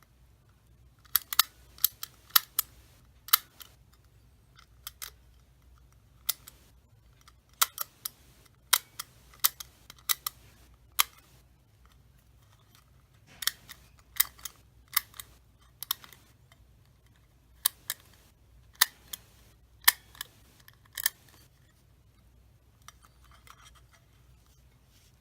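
Hankyu Railway train announcement changeover switch being operated by hand: sharp mechanical clicks, singly and in quick pairs, in scattered groups, as it is switched between positions. A faint scraping follows near the end.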